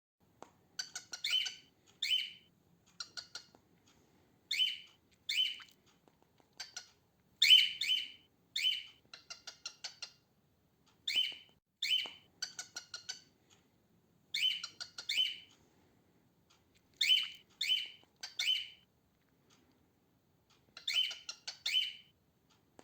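Female cockatiel calling: short, harsh chirps, mostly in pairs and threes, with softer runs of rapid chatter between them and brief pauses.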